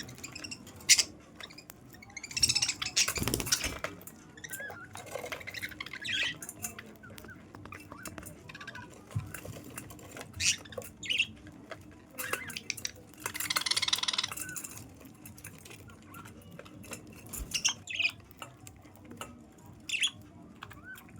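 Pet parrot feeding from a hand, giving short squawks and chirps among scattered small clicks. Two louder, longer noisy bursts come about two seconds in and again around thirteen seconds.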